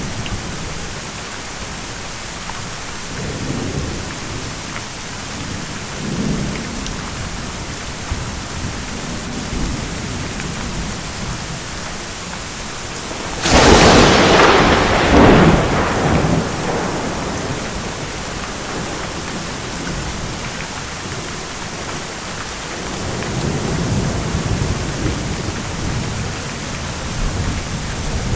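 Steady rain with rolling thunder: low rumbles a few seconds in and again near the end, and a sharp, loud thunderclap about halfway through that dies away over a few seconds.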